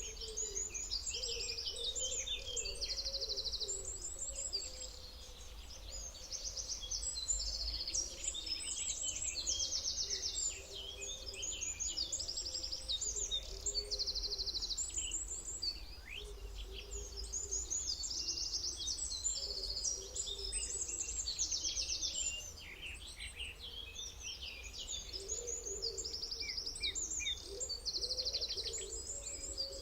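Many birds singing and calling at once, a dense chorus of overlapping chirps and rapid trills, over a steady low rumble.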